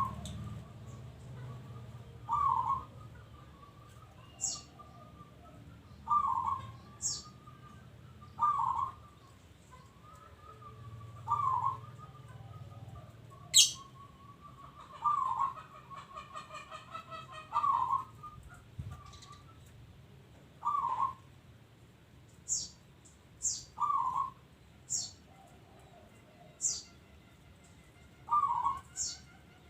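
Zebra dove (perkutut) cooing: short rolling notes repeated about every two seconds, with a longer rapid rattling phrase around the middle. Sharp high chirps sound in between, more often near the end.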